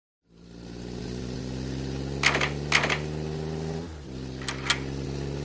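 Car engine sound effect running steadily, with two pairs of sharp clicks, the first about two seconds in and the second near the end.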